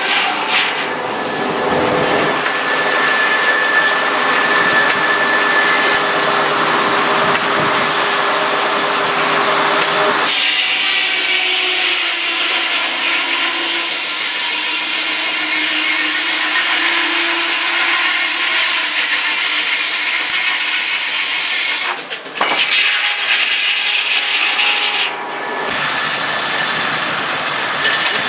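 Sawmill saw running and cutting through wood, a loud continuous grinding whose character changes abruptly several times.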